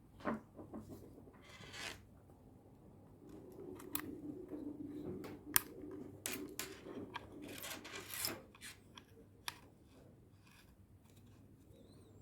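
Hand work on a car door lock mechanism: rubbing and scraping of parts with scattered small clicks, and a low hum for a few seconds in the middle.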